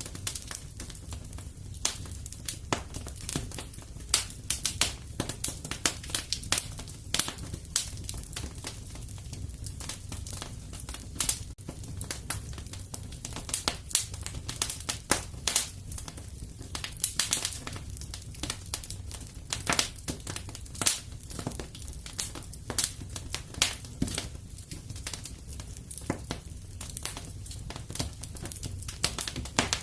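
Wood fire crackling and popping, with dense irregular snaps over a steady low rumble of the burning fire.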